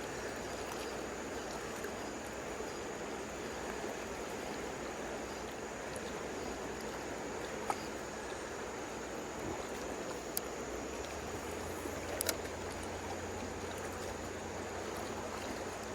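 Steady rush of flowing river water, with a few faint, brief clicks about 8, 10 and 12 seconds in.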